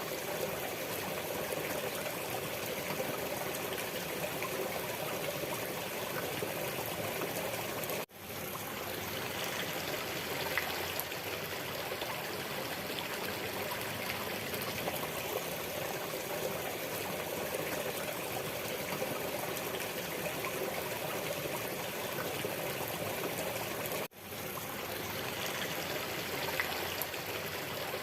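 Waterfall's rushing water, a steady even wash of sound. It cuts out briefly twice, about sixteen seconds apart, and swells straight back in each time.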